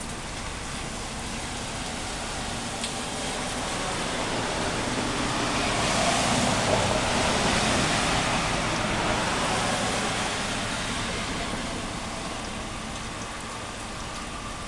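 A vehicle passing on a wet road, its tyre hiss swelling for several seconds and fading away, over steady rain.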